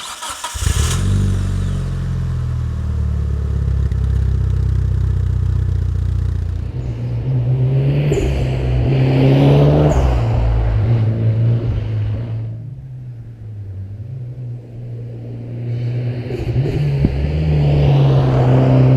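Mitsubishi Lancer Evo VI Tommi Makinen Edition's turbocharged four-cylinder engine running. The revs rise about eight seconds in, fall away to a quieter stretch, and rise again near the end.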